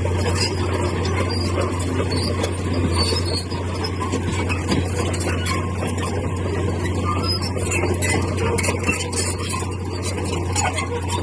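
Diesel engine of heavy earthmoving machinery running steadily with a low, even hum, with scattered high squeaks and clicks over it.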